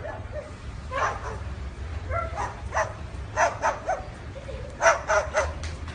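A dog barking in a string of short, high yips, about a dozen in all, the loudest a little before the end.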